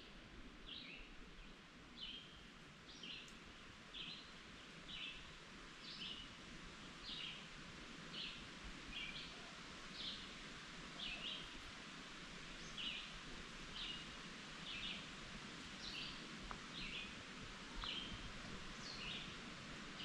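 A bird calling steadily, short high chirps repeated about one to two times a second, over faint outdoor hiss.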